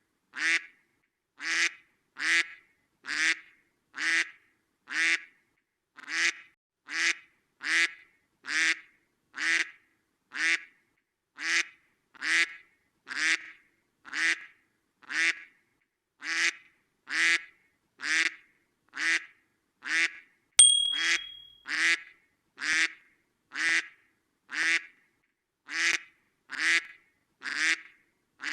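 Duck quacking over and over, single quacks about once a second at a very even pace. About 21 seconds in there is a sharp click with a brief high beep.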